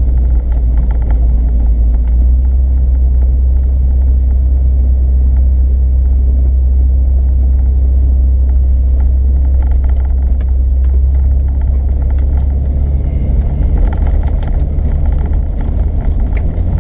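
Off-road vehicle driving along a dirt trail: a steady low rumble of engine and running gear, with scattered small clicks and rattles that come more often near the end.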